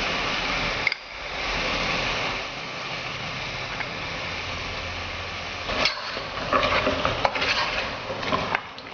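Mixed vegetables and masala sizzling steadily in a pot on the stove; from about six seconds in, a spatula scrapes and knocks against the pot as they are stirred.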